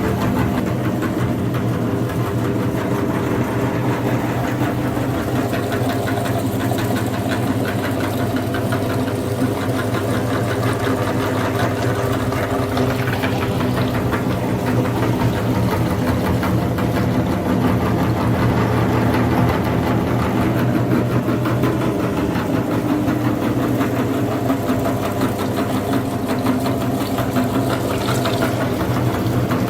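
Mini tractor's engine running steadily at an even speed with a fast, regular firing beat.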